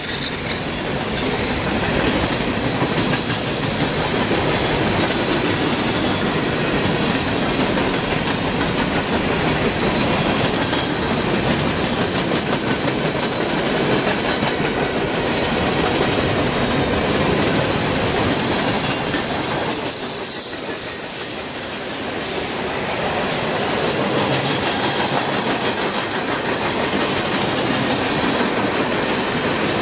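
A mixed freight train's cars (boxcars, covered hoppers and tank cars) rolling steadily past, a continuous noise of steel wheels on the rails. It dips briefly about twenty seconds in.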